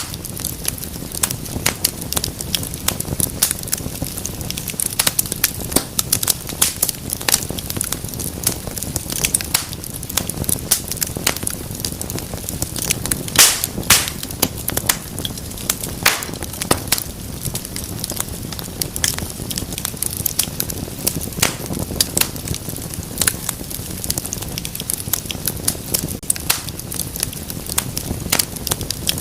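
Wood fire crackling steadily, with frequent sharp pops and snaps over a low rumble of flame; a few louder snaps come near the middle.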